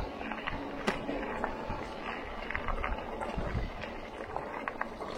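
Bike riding along a rough dirt track: a steady rumble of tyre and rolling noise with scattered clicks and rattles from the bike.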